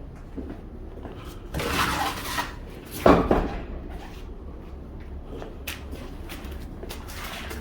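Low steady rumble, as of a big-rig truck's engine heard from the cab, with a burst of hissing about a second and a half in and a sharp, loud thump about three seconds in, followed by a few small clicks and knocks.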